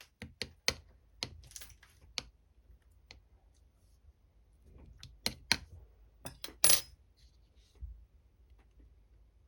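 Clear slime being handled, giving sharp clicks and pops: about six in the first two seconds, then another cluster around five to seven seconds in, the last a longer crackle.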